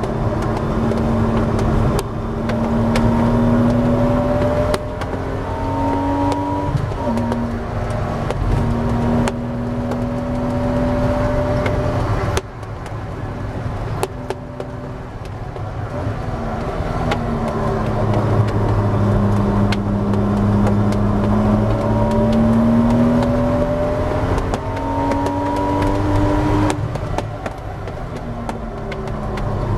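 Porsche 986 Boxster S's 3.2-litre flat-six engine at racing speed, heard inside the car: the revs climb and drop sharply at a gear change about seven seconds in, the note fades briefly after about twelve seconds, then climbs in a long pull before falling as the car brakes near the end. Wind and tyre noise run underneath.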